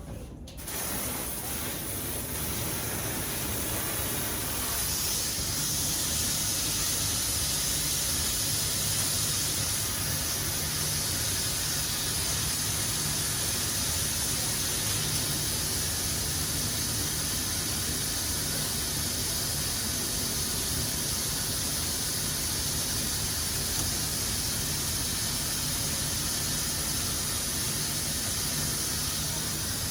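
Water turned on and running steadily into a grooming tub, a constant hiss that starts just after the opening and grows brighter about five seconds in.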